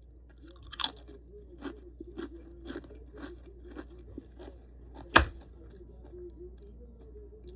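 Someone chewing chips with guacamole: crisp crunches about twice a second, with one much louder sharp crunch about five seconds in.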